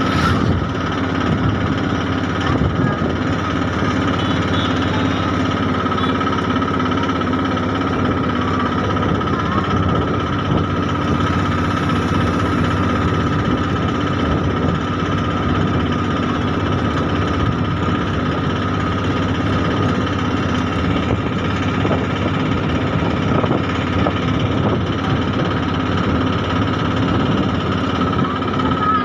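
Train running steadily: a constant rumble and hum with a continual light rattle of small clicks.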